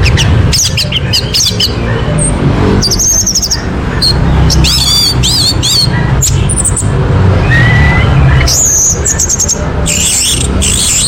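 Orange-headed thrush song: a varied, fast run of chirps, short whistles and wavering trills, over a steady low hum.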